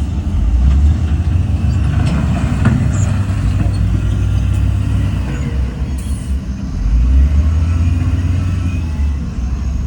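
Heavy earthmoving machinery's diesel engine running with a deep, steady rumble, with a few short knocks about two to three seconds in. The engine grows louder about seven seconds in.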